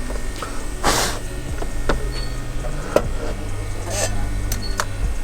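Light clicks and taps of small parts being handled on a workbench, over a steady low electrical hum, with a short hiss about a second in and a fainter one near four seconds.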